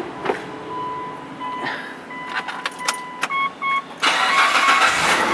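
Ignition key clicks and dashboard warning beeps, then the Mitsubishi Pajero's engine cranks and starts about four seconds in and runs smoothly. The belt squeal is gone now that the belt tensioner has been replaced.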